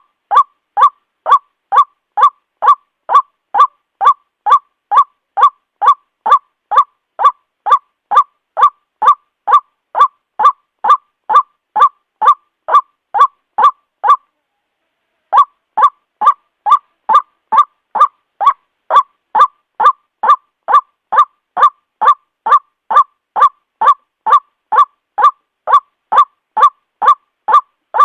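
White-breasted waterhen calling a loud, honking note over and over, about two calls a second. The calls stop for about a second near the middle, then resume at the same pace.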